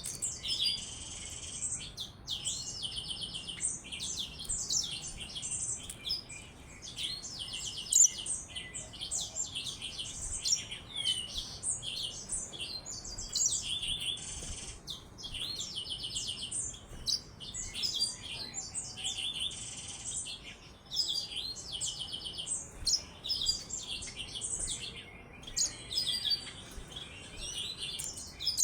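Yellow-fronted canary (Mozambique canary) singing a long, continuous, high-pitched warbling song with rapid trills.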